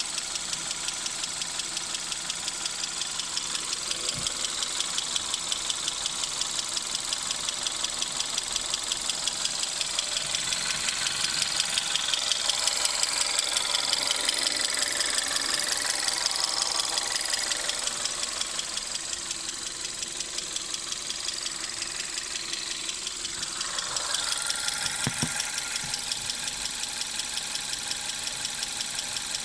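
Engine running with a rapid, even knocking on every beat, the knock that the owner is showing. It gets somewhat louder for a stretch in the middle.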